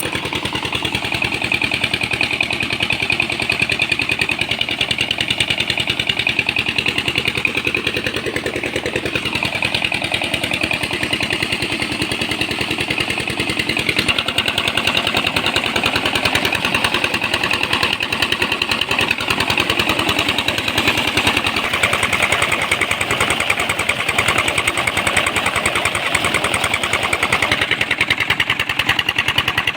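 Tractor diesel engine running steadily, with an even, continuous pulsing beat.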